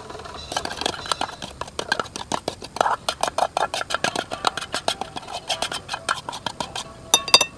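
A quick run of sharp clicks and knocks, several a second, from utensil work during campfire cooking, ending in a brief flurry of sharper, brighter clicks.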